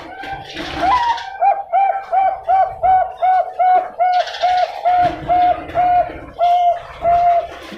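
Zebra dove (Bangkok-type perkutut) singing a long, rhythmic series of short, clear coo notes at an even pitch. The notes start softly, turn loud about a second in, and come about three a second, spacing out a little toward the end.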